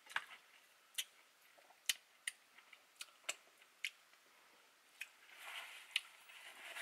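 Close-miked eating sounds: a string of sharp, wet mouth clicks and smacks from chewing, roughly one to two a second, with a softer, noisier stretch about five seconds in.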